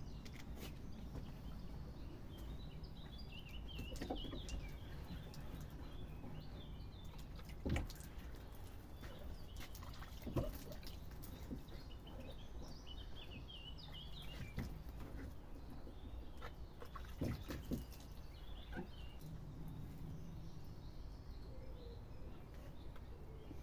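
Small birds chirping and twittering in short spells, with a low steady rumble and about seven scattered sharp knocks.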